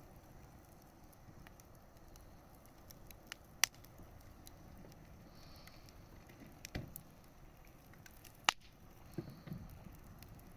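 Wood bonfire burning with a low steady hiss and scattered crackles, broken by three loud sharp pops, the loudest about two thirds of the way in.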